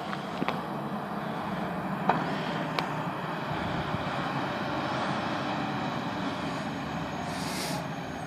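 Fire truck engine running steadily, with a few sharp clicks in the first three seconds and a short hiss near the end.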